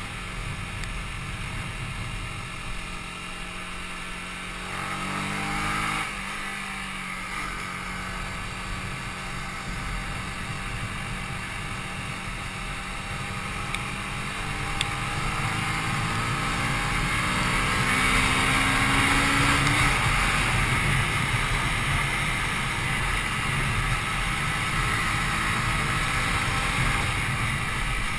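Yamaha YZF-R125's single-cylinder 125cc four-stroke engine pulling through the revs under acceleration, with the engine note dropping sharply about six seconds in at a gear change and then rising again more slowly, over steady wind noise.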